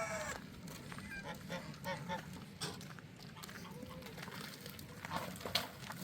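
Farmyard poultry calling. A rooster's crow trails off as it opens, short calls follow about one to two seconds in, and a faint call comes near four seconds, with scattered light knocks throughout.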